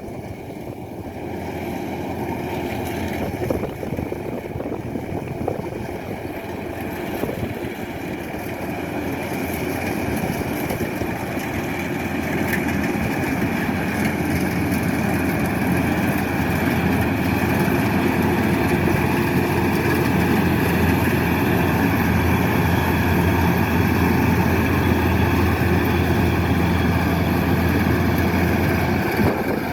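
Kubota DC-105X combine harvester's diesel engine running, with a steady droning hum. It grows steadily louder over the first half, then holds level.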